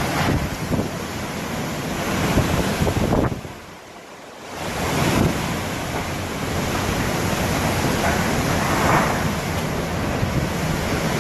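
Hurricane wind blowing hard in gusts and buffeting the microphone, easing suddenly for about a second around three seconds in before surging back.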